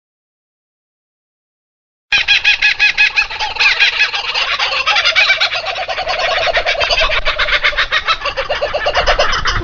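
Silence, then about two seconds in a flock of poultry starts calling, a dense, rapid chatter of many overlapping calls that cuts off right at the end.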